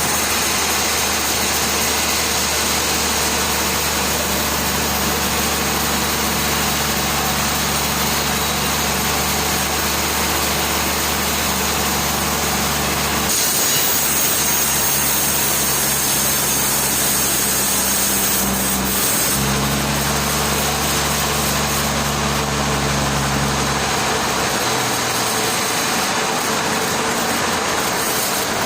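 Sawmill machinery running: a steady engine hum under loud, even noise, the engine note shifting a few times.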